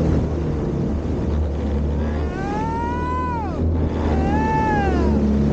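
Aquanami JetAngler Pro jet kayak's motor running steadily under a wash of water noise. Two long high calls, each rising and then falling, sound over it about two and four seconds in.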